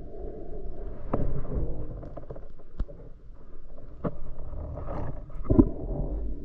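Muffled underwater rumble picked up by a camera in a waterproof housing, with a few sharp clicks and knocks scattered through it.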